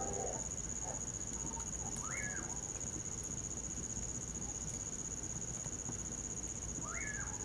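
Common pauraque (bacurau) giving its whistled call twice, about five seconds apart; each call sweeps up and then falls away. Under it runs a steady high trill of crickets.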